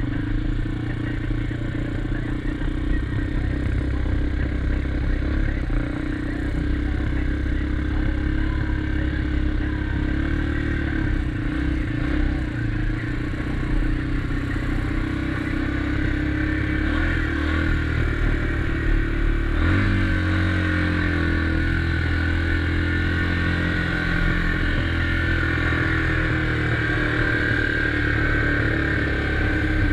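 2021 SSR XF250 250cc single-cylinder dirt bike running on the move, heard from the rider's helmet camera, its engine note changing about two-thirds of the way through.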